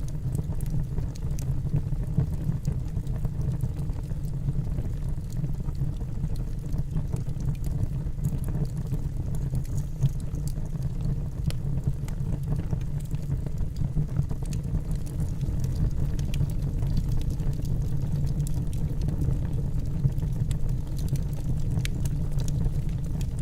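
Wood fire burning in a fireplace: a steady low rumble of the flames with small, scattered crackles of the logs.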